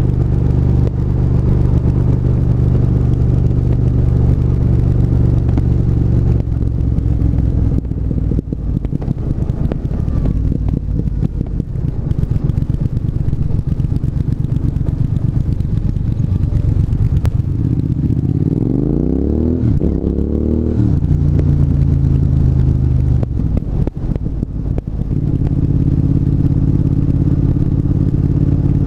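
Triumph 1200 cc parallel-twin motorcycle engine under way, running steadily with the revs stepping now and then; about eighteen seconds in the revs climb sharply for a few seconds under acceleration, then settle back.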